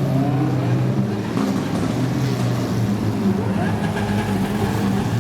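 Car engines running steadily at a supercar gathering, a low even drone with a few short rising notes on top.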